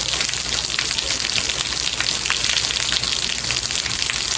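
Steady rain falling, an even hiss of many drops with fine scattered ticks of individual drops through it.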